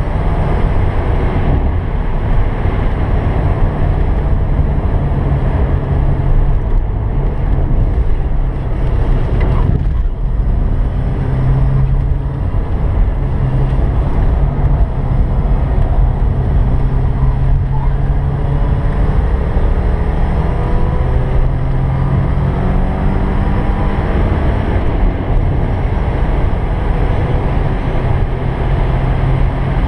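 Naturally aspirated 2.5-litre inline-four of a 1986 Porsche 944 pulling hard on track, heard from inside the cabin with road and wind noise. The sound drops briefly about ten seconds in, then the engine's pitch climbs steadily as the car accelerates.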